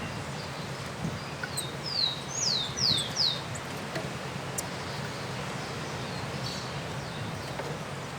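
A bird singing a short phrase of about six quick, high whistled notes, each sliding downward, over a steady low background hum.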